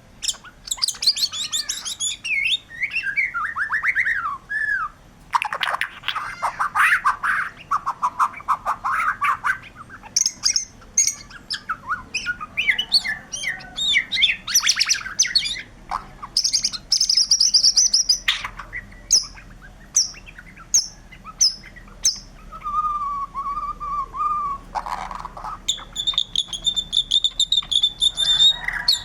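White-rumped shama (murai batu) singing vigorously: a varied run of whistled phrases, fast trills and sharp high chips, with short pauses between phrases and a few held clear notes near the end.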